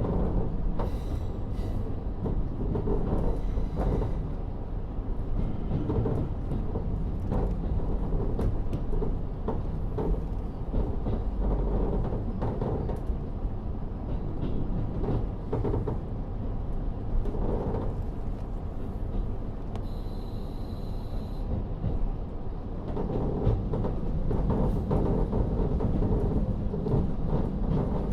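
Inside a KiHa 40 diesel railcar running along the line: a steady low rumble from the N-DMF13HZB diesel and the wheels on the rails, with short clicks from the track throughout. A brief high-pitched tone sounds for a second or so about twenty seconds in.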